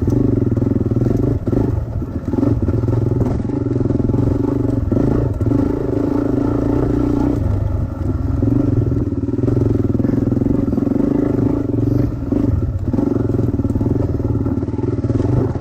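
Small dirt bike engine running under way at a fairly steady pitch, with a brief ease-off a couple of times and scattered knocks as the bike rattles over rough ground.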